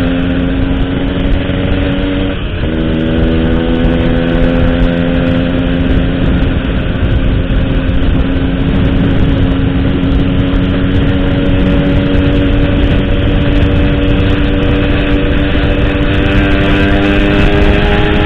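135cc motorcycle with an Altech C17 aftermarket exhaust running under steady throttle while riding. The engine note breaks briefly about two and a half seconds in, then climbs slowly as the bike gathers speed, over a low rush of wind and road noise.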